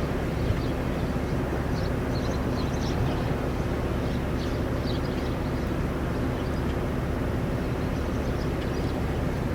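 Steady low rumble of wind and a running vehicle engine with a constant low hum, with short high bird chirps scattered throughout.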